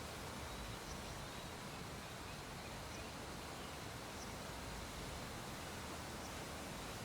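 Steady low background hiss with a few faint, very short high chirps at irregular intervals.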